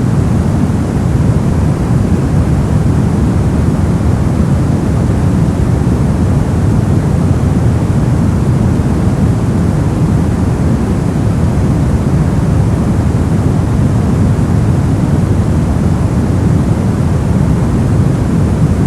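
Steady, unchanging white-noise-style sleep track. Its energy sits mostly in the low end, so it sounds deep rather than hissy.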